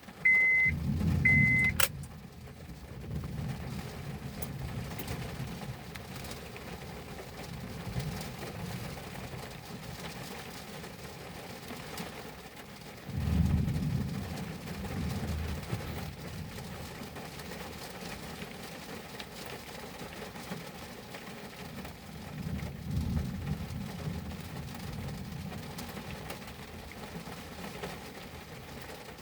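Thunderstorm heard from inside a car cabin: a steady hiss of rain and wind, with deep rumbles swelling up around 13 seconds in and again around 23 seconds. A car's high electronic chime beeps twice at the start.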